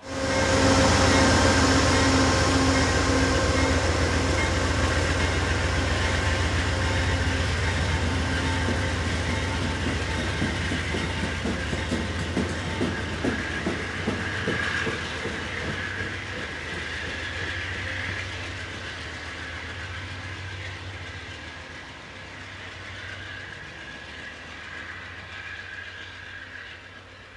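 Diesel-hauled passenger train passing close on the Springfield Line, a steady engine drone with wheels clicking over rail joints. It comes in loud and slowly fades as the train moves away.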